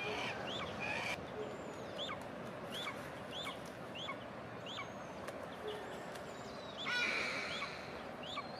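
A bird calling over and over in short, high, thin chirps, about two a second.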